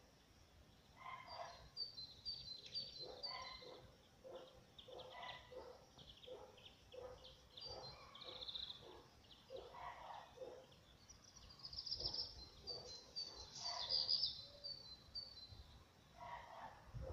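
Small birds calling: runs of short, high chirps in quick series, loudest about twelve to fourteen seconds in, with scattered lower call notes between them.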